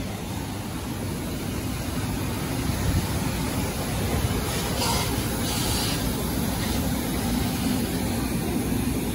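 Steady low rumble of a vehicle engine idling, with a couple of brief hissing rustles about five seconds in.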